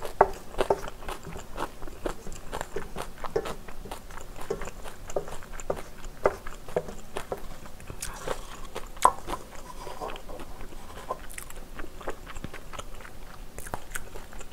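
Close-miked chewing of kimchi fried rice, with wet mouth noises and the irregular clicks and scrapes of a metal spoon gathering rice in a stainless steel pan.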